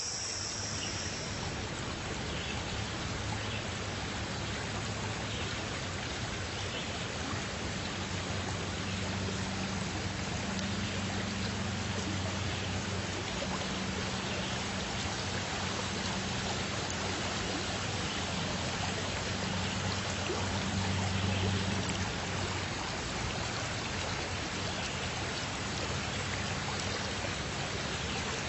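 Flowing water running steadily, with a low rumble underneath that swells slightly about two-thirds of the way in.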